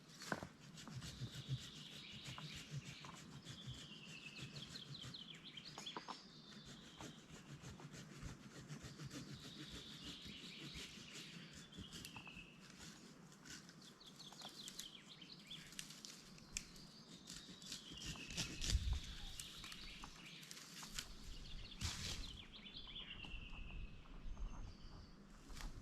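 A songbird singing the same short falling phrase over and over, about every two to three seconds, with scattered faint clicks and rustling.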